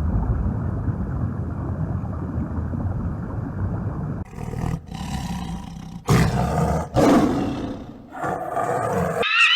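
Animal calls: a low, rough rumbling call lasting about four seconds, followed by several shorter, louder calls.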